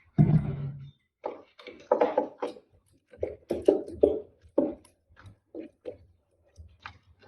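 Small hand tools and loose nuts being worked inside an inverter's case: irregular knocks and clicks, the loudest a thump just after the start.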